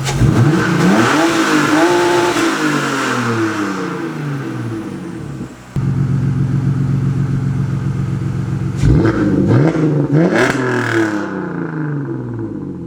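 Car engine revving from idle. The revs climb at the start, hold briefly, and fall back over a few seconds to a steady idle. Two quick blips of throttle come around nine and ten and a half seconds in. The engine has just had a replacement ECU fitted and answers the throttle sharply.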